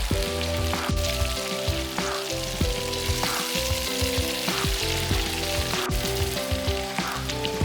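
Food sizzling as it cooks, a steady hiss, under background music with a regular beat.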